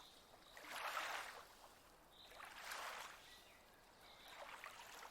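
Faint small waves lapping at a lakeshore, in three soft swells about two seconds apart.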